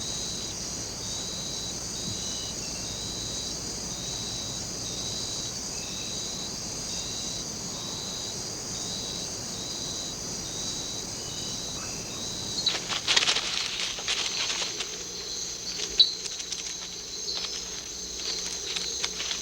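Rain forest insect chorus: a steady high trill with a chirp repeating a little more than once a second. About 13 seconds in it gives way to scratchy rustling and crackling among leaves, with a sharp click about three seconds later.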